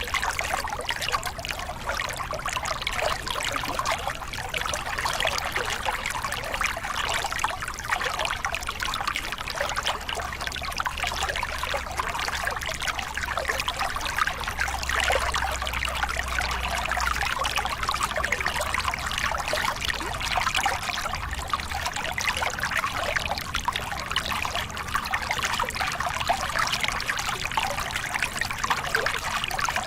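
Water of a small river cascade splashing and running steadily, an even rushing with no breaks.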